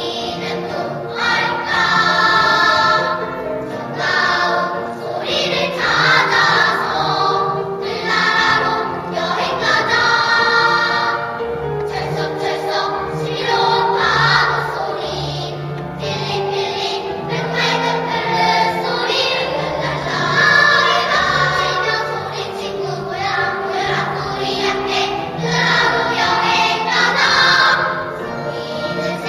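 Children's choir singing in unison with instrumental accompaniment, in phrases of about two seconds each.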